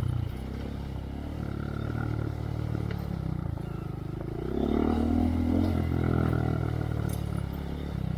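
Honda Monkey's single-cylinder engine running through a Yoshimura RS3 exhaust with spark arrestor while trail riding, its pitch rising and falling with the throttle and getting louder about halfway through.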